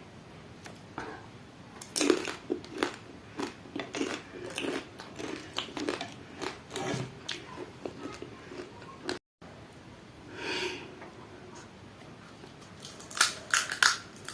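Crisp pani puri shells crunching as they are bitten and chewed: a run of crackly crunches, then, after a short gap, another quick cluster near the end.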